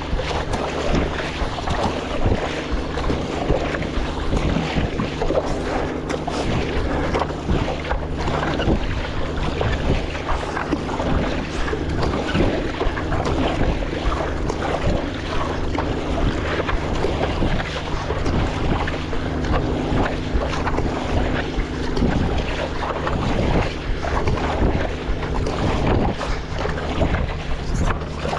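Wind buffeting the microphone over water splashing and sloshing around a stand-up paddleboard on choppy sea, with a faint steady low hum underneath.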